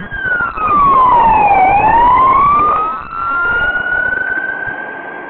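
Fire apparatus siren wailing: its pitch sweeps down over the first second and a half, climbs back up by about three seconds in, then holds high. It is loudest during the low dip.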